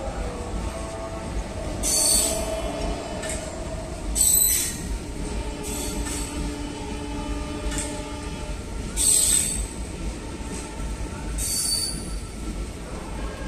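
Indian Railways passenger train running with a steady low rumble. It is broken four times by short, sharp high-pitched squeals, each under a second long.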